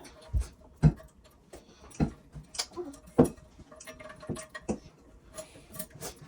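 About a dozen irregular clicks and knocks of small plastic and metal parts being handled as a toilet tank's flush lever handle is taken off or fitted.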